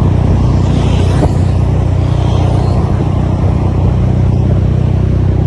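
Motorcycle engine running at a steady speed, with road and traffic noise.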